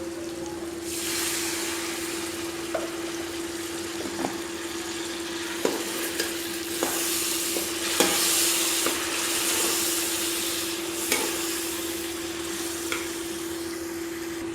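Curry masala of tomatoes and spices sizzling in a pot while it is stirred with a spoon that knocks against the pot every second or so. The sizzle swells about a second in, just after a little water has gone in, over a steady low hum.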